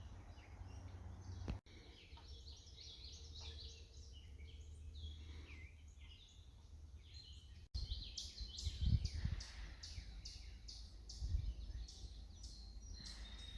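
Several birds chirping and singing in quick, high notes, busier in the second half. Underneath runs a low rumble with a few dull thuds.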